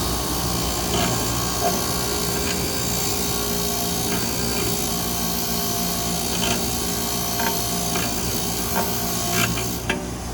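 Steady abrasive scrubbing on a metal part as it is wire-brushed and smoothed clean, with a few light clicks over a low background hum.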